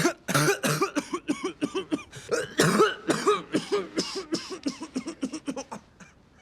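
A man's long coughing fit, many harsh, voiced coughs in quick succession over several seconds, the cough of a gravely ill man poisoned and getting worse.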